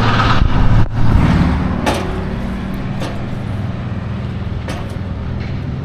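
Vehicle engine idling steadily, with a brief dropout about a second in and a few light clicks or knocks.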